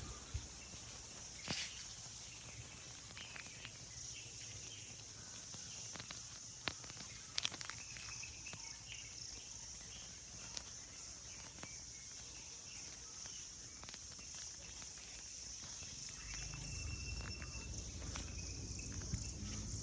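Insects chirring in a steady high-pitched chorus, with scattered short clicks and taps. A low rumble comes in near the end.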